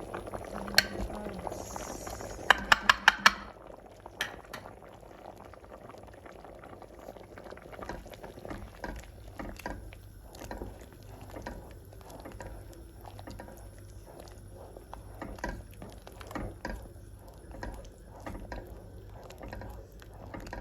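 Pot of chicken soup boiling, bubbling with many small irregular pops. Near the start, a single sharp tap and then five quick sharp taps in a row.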